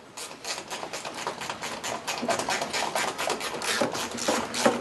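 Hand ratchet wrench clicking rapidly and steadily as it is worked back and forth.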